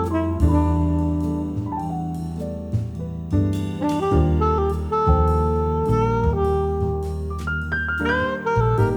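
Background jazz music with a saxophone carrying the melody over bass, piano and a drum kit.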